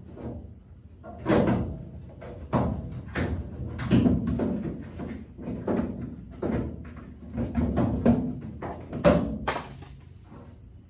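A string of irregular, loud metallic clanks and thumps, about a dozen spread over ten seconds, from tools and metal parts being handled and knocked while the bed is worked loose from the truck.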